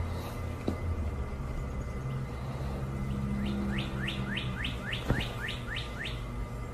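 A bird chirping: a quick run of about ten short rising chirps starting about halfway in, over a steady low hum.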